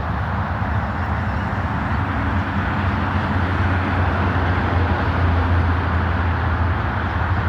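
Car engine running steadily: a constant low hum under an even hiss.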